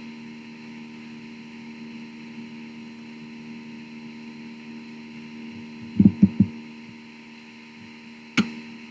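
Steady electrical hum on the sound system, with three quick dull thumps about six seconds in and a single sharp knock near the end.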